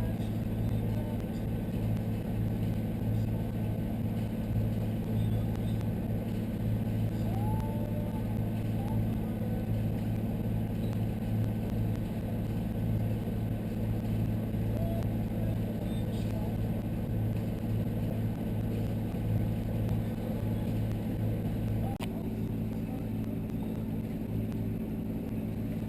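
Sailing yacht's inboard engine running steadily under way, a low, even hum. A click comes about twenty-two seconds in, after which the engine note shifts slightly.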